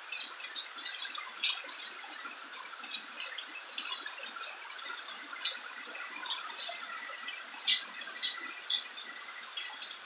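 Rain falling steadily, with many irregular drips and splats standing out above the hiss.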